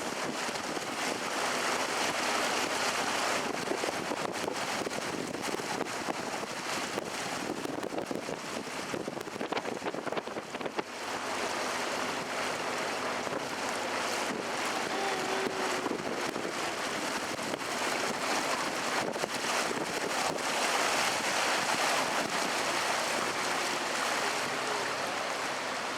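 Steady rushing noise of a canal tour boat under way: wind buffeting the microphone over water sounds along the boat.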